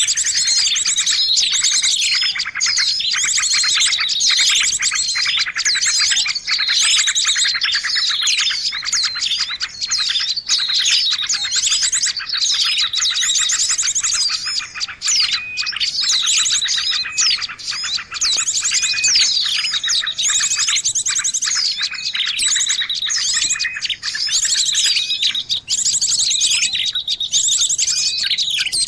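Bird-luring recording of many small birds chirping and trilling at once: a dense, unbroken chorus of high, overlapping chirps and rapid trills.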